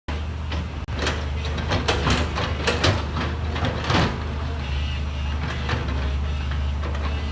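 Engine running steadily with a low hum, with many sharp metallic clanks and knocks over it; it starts abruptly and drops out for a moment about a second in.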